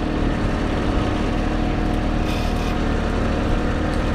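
John Deere 1023E compact tractor's three-cylinder diesel engine running steadily at high throttle under load, towing a pickup truck on a tow rope. A brief hiss comes about two seconds in.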